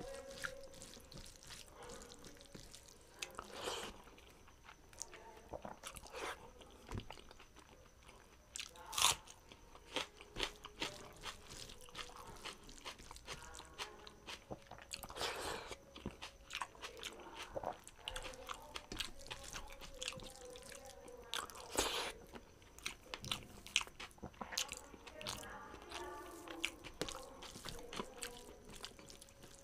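Close-miked eating of rice, dal and mashed vegetables by hand: steady wet chewing and mouth clicks, with a few sharper crunching bites.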